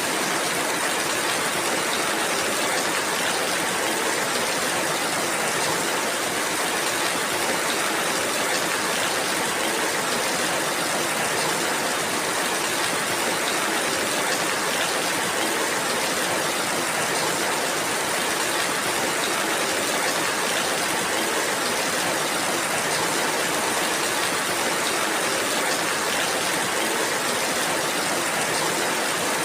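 Steady rainfall, an even hiss with no separate drops or other events standing out.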